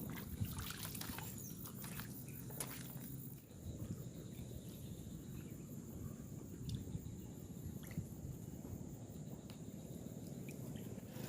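Quiet riverside ambience: water trickling and lapping, with scattered small clicks and knocks and a faint steady high-pitched tone.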